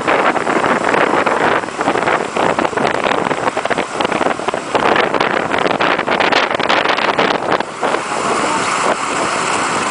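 Rough rushing and crackling noise of an iceboat gliding over ice, with wind buffeting the microphone; about eight seconds in it smooths into a steadier hiss.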